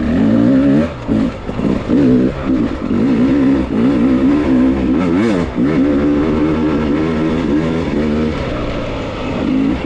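Beta enduro dirt bike's engine revving up and down in short pulls of throttle, its pitch wobbling constantly and dropping off briefly a few times as the bike picks its way over loose rocks.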